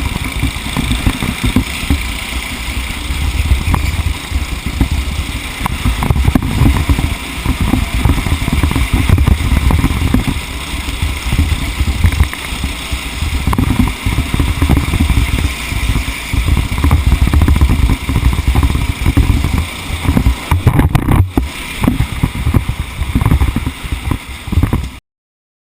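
A racing vehicle's engine running hard, heard on board, with a brief dip a little before the end; the sound then cuts off suddenly.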